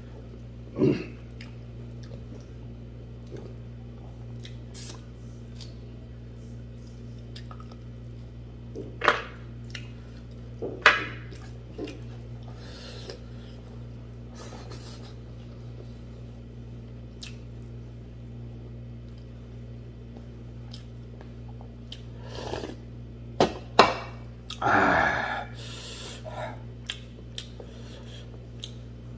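Close-up eating of rice with buffalo leg soup: quiet chewing with a few sharp, louder mouth or utensil sounds now and then, the longest a second or so near the end. A steady low hum lies underneath.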